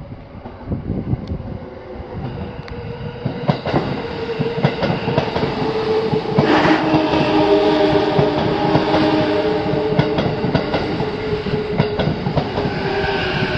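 JR East E233-7000 series electric train pulling into a station: wheels clicking over rail joints and a motor whine slowly falling in pitch as it slows, getting louder as it comes alongside. A brief loud rush of noise comes about six and a half seconds in.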